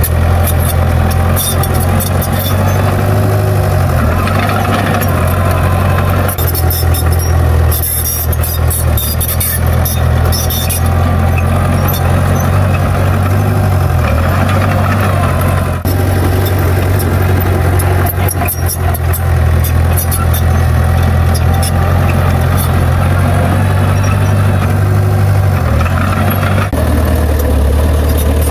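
Komatsu bulldozer's diesel engine running steadily, its pitch dipping a few times as the load changes, with fast high squeaking and clattering over the top.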